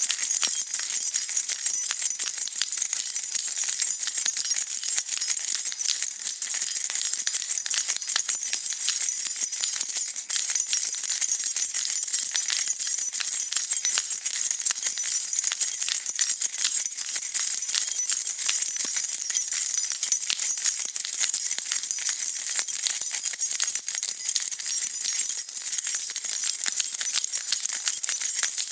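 A bunch of metal keys being shaken, jingling continuously with many small bright clinks at a steady level.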